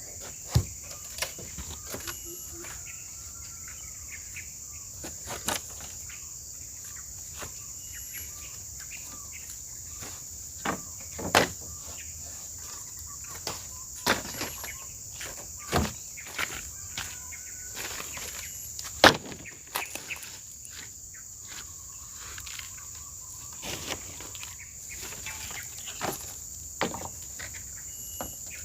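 Steady high-pitched insect chorus of crickets, with scattered sharp knocks or taps every few seconds and a few faint short chirps.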